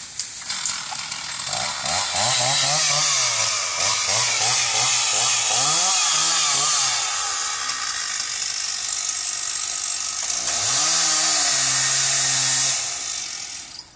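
Chainsaw revving up and cutting through tree limbs, its engine pitch rising and falling in two long runs, then dropping off suddenly near the end.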